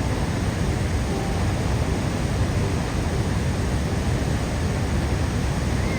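Steady roar of the Niagara falls close by: an even, unbroken rush of water, heaviest in the low end.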